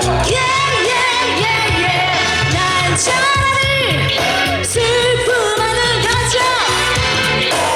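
Live band playing a Korean pop song, with a woman singing lead in a gliding, wavering melody over a steady beat.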